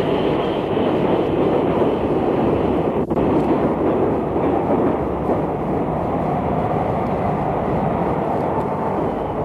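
Steam train running past: a steady, dense rush of train noise with one brief break about three seconds in.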